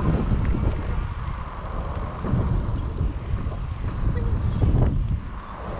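Wind rumbling on the microphone of a moving electric bike, a low rumble that rises and falls, with a faint steady high tone underneath.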